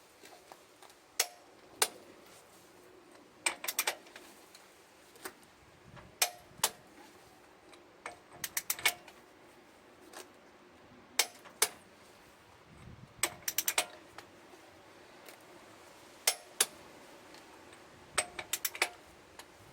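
Metal tools and hardware clinking and tapping in a truck tyre change: sharp clinks come singly and in quick clusters of three to five, irregularly every second or two.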